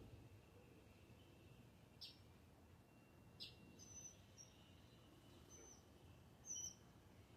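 Faint bird song: short, high chirps spaced a second or so apart, the loudest about six and a half seconds in, over a thin, steady high tone.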